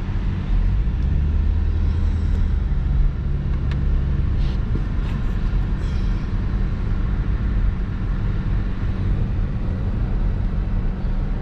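Hyundai Genesis Coupe 3.8's V6 engine running steadily as the car drives, with a few faint clicks between about three and six seconds in.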